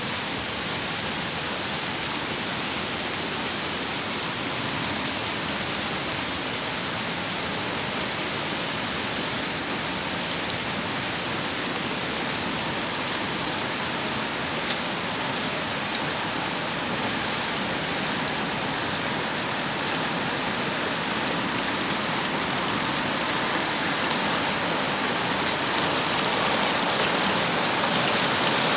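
Heavy rain pouring down in a steady, dense hiss that grows slightly louder toward the end.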